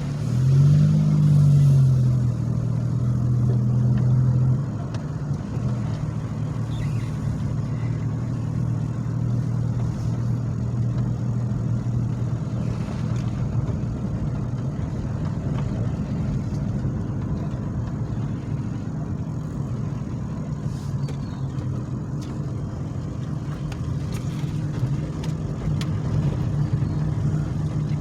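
Car engine running under way, revving up with a rising then falling pitch in the first couple of seconds and loud until about four and a half seconds in, then settling to a steady drone. The automatic transmission is failing: it struggles in first gear and the owner judges it toast.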